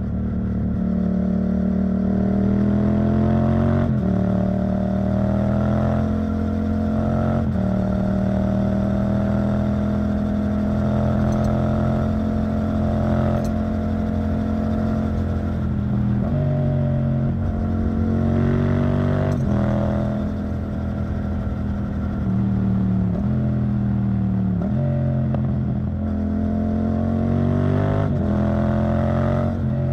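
Yamaha MT-07's parallel-twin engine through an Arrow Thunder titanium exhaust, ridden through the gears. The engine note climbs and eases, with several sudden drops in pitch at gear changes.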